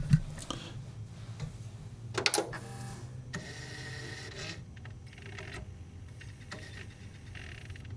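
CD player's disc mechanism working: small clicks and a clatter, a rapid mechanical buzzing, then a steady high whine for about a second, followed by faint clicks.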